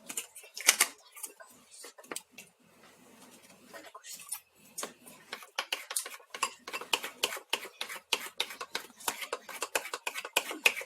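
A spoon clinking and scraping against a mixing bowl while cake batter is stirred. A single sharper knock comes near the start, then quick repeated taps from about four seconds in.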